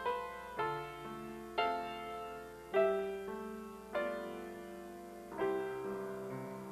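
Piano playing slow, gentle chords, one struck about every second and left to ring and fade.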